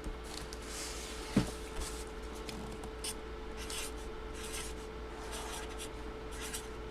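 Light rubbing and scratching as the packaging of a boxed autographed photo is handled, with one sharper knock about a second and a half in.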